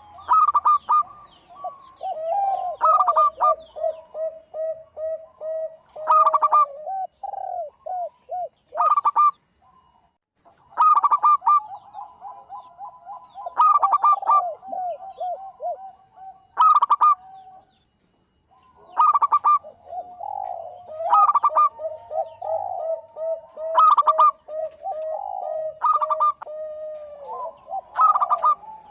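Local zebra dove (perkutut) singing vigorously: phrases of rapid staccato coos repeated every few seconds, with two brief pauses.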